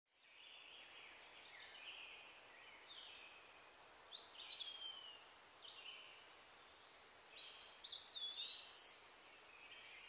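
Forest birds singing: short whistled phrases every second or two, the loudest about four and eight seconds in with a note that slides downward, over a faint steady hiss.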